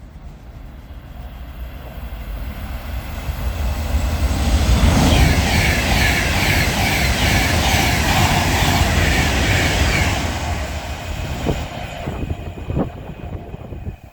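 A train passing through the station: its rumble builds to a peak about five seconds in, holds with a rapid rattle of wheels on rail joints, and fades after about ten seconds.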